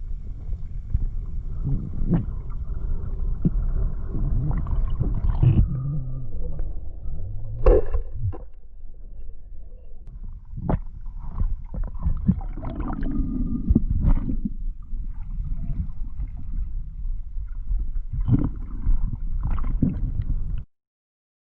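Water noise rumbling around the microphone, with gurgles and scattered sharp knocks; it cuts off suddenly near the end.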